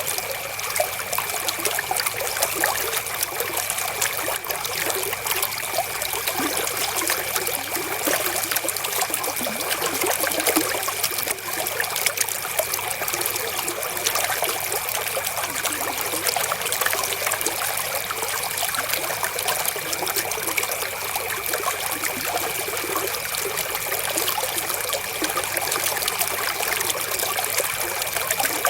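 Shallow river water flowing and trickling steadily over stones, with a thin, steady high tone running underneath.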